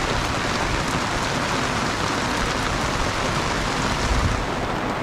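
Heavy rain falling steadily, a dense even hiss of drops hitting the ground, with a brief low rumble swelling about four seconds in.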